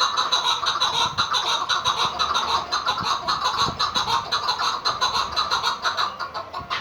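Chukar partridges calling, a rapid, unbroken run of clucking notes.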